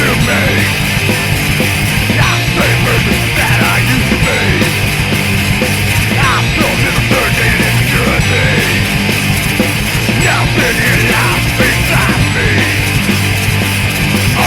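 Punk rock song played loud and fast by a guitar, bass and drums band, with no words caught.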